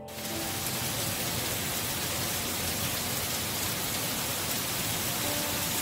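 Heavy rain falling steadily, a dense even hiss that comes in abruptly at the start. Faint musical notes come in near the end.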